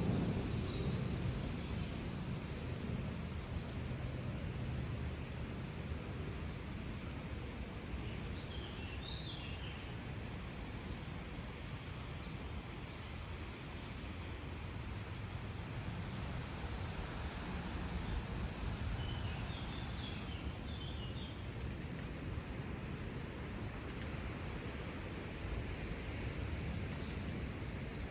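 Open parkland ambience: a steady low rumble with small birds chirping now and then. A high, thin note repeats about twice a second through the second half.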